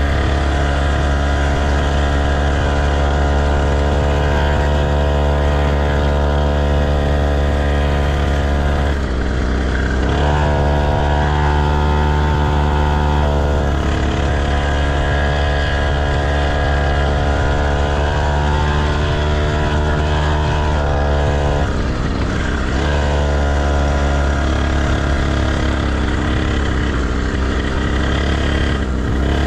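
Motocross bike engine running steadily, its pitch stepping up or down a few times as the throttle and gears change.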